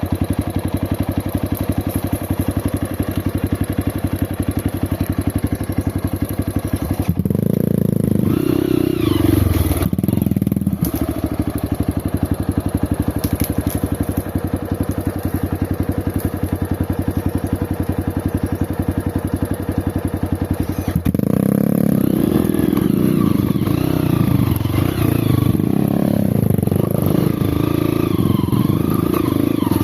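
Off-road motorcycle engine ticking over steadily, then revved with rising and falling pitch about seven seconds in and again from about twenty-one seconds on as the bike is ridden.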